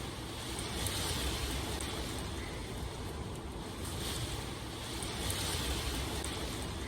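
Steady rain falling: an even hiss that swells and eases a little, with faint ticks of single drops.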